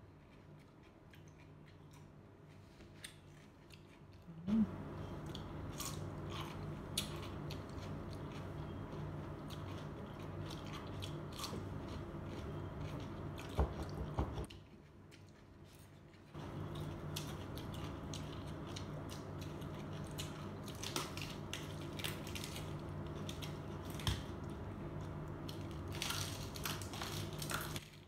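Crunching and chewing of raw vegetables, carrot and cucumber sticks among them: many crisp bites in quick succession over a steady low hum. The first few seconds are quieter, and the hum and crunching drop out for about two seconds a little after the middle.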